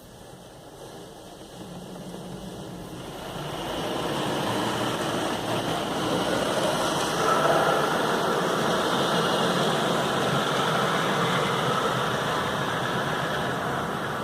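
Car wash equipment running with a steady rushing noise that builds up over the first four seconds and then holds.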